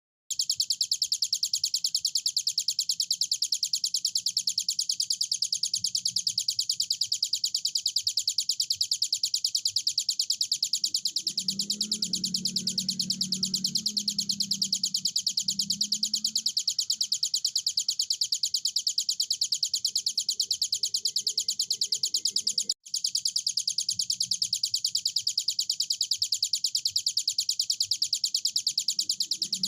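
Ciblek gunung (hill prinia) singing without pause: a rapid, evenly repeated string of high, sharp notes, cut off for an instant about 23 s in. A faint low rumble sits under it around the middle.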